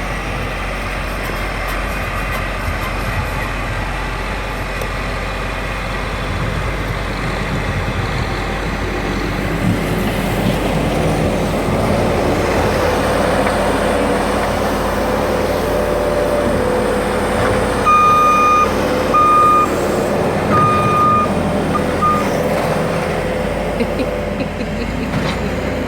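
Snowplow vehicle's engine running, working harder from about a third of the way in as it pushes snow. Its backup alarm beeps three or four times about two-thirds of the way through.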